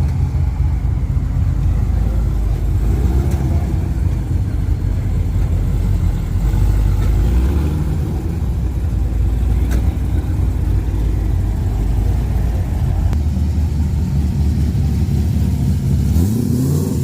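Car engines running at a low, deep idle as they pull into parking spots, with a few light revs, the last one rising near the end.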